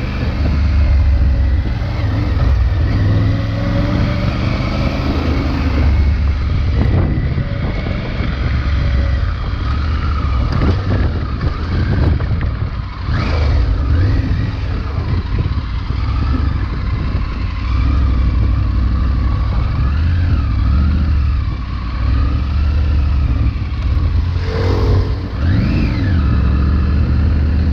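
Triumph Tiger 900 Rally Pro's inline-three engine, T-plane crank and stock exhaust, running under load as the bike is ridden over loose gravel, its pitch rising and falling with the throttle.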